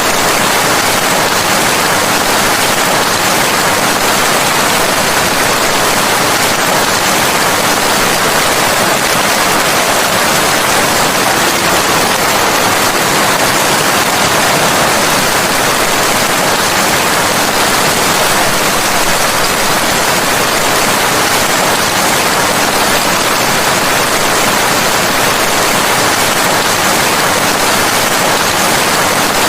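Steady heavy rain: a constant, even hiss of rainfall with no distinct drops, thunder or change in level.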